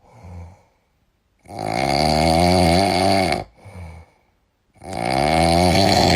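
A dog snoring loudly: two long snores of about two seconds each, about three seconds apart, each followed by a short, softer breath.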